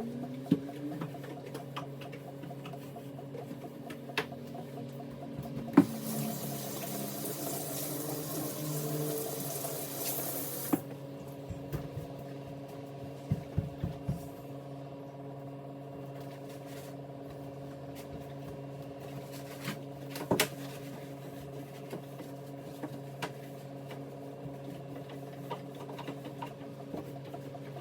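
Kitchen tap running into the sink for about five seconds, starting about six seconds in, with dishes clinking and knocking now and then.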